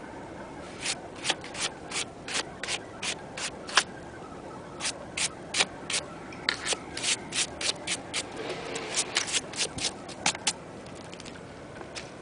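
Footsteps crunching in fresh snow at a brisk, even pace of about three steps a second, pausing briefly twice.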